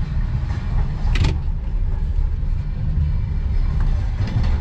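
Steady low rumble of a passenger train carriage running along the track, heard from inside the coach, with one sharp click about a second in.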